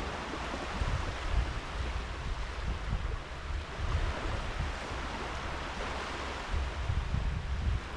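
Sea waves washing onto a sand beach in a steady, gently swelling wash. Wind gusts buffet the microphone with a low rumble near the start and again near the end.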